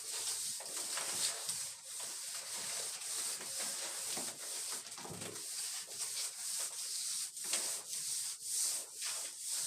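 Plastering tool scraping and rubbing wet cement-sand plaster across a wall in repeated strokes.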